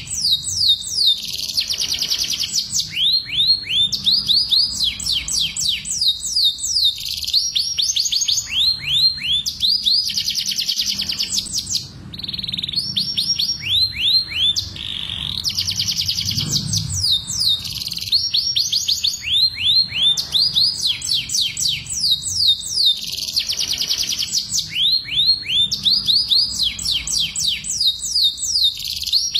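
Canaries singing a breeding song: continuous phrases of rapid trills made of quick falling notes, the rolling full-voiced song of a male canary in breeding condition. There is a brief lull about twelve seconds in.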